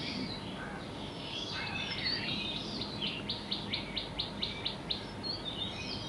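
Small songbirds chirping and twittering over a steady faint hiss, with a fast, even trill of about ten high notes from about three to five seconds in.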